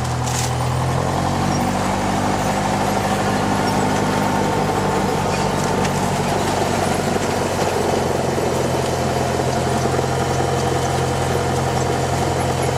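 Small propeller airplane's piston engine droning steadily, heard from inside the cabin.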